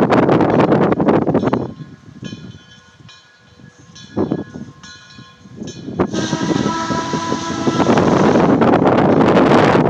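Steam locomotive whistle of Frisco 1630, a 2-10-0 Decapod, blown for a road crossing: a steady chord with a few short breaks, becoming louder about six seconds in. Heavy wind noise on the microphone covers the first couple of seconds and returns near the end.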